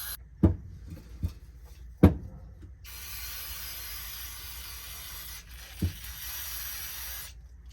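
A few sharp knocks of small metal parts being handled, then an aerosol can of carburetor cleaner spraying in a long steady hiss, broken once briefly, as the carburetor parts are doused.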